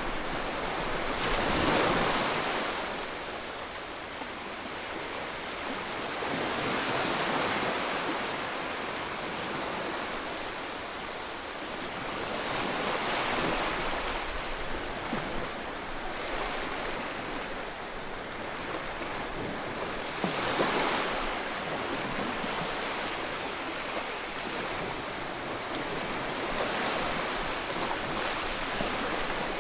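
Sea waves breaking and washing ashore, the surf swelling and fading about every six seconds, five surges in all.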